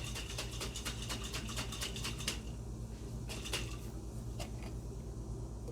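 A metal utensil clinking and scraping against a pot in quick repeated strokes, about five or six a second for the first two seconds, then a few more clinks. A steady low hum runs underneath.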